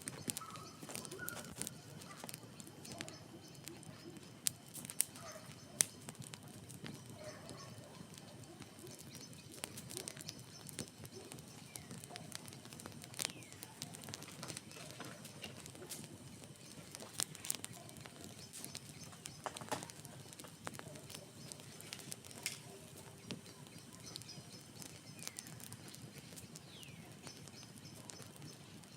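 Wood fire crackling, with irregular sharp snaps and pops; the loudest come about four and a half and six seconds in. Birds call faintly in the background.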